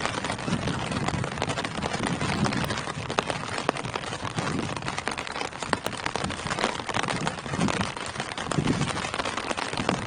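Steady rain falling through tree leaves, with many single drops ticking and gusts of low rushing wind.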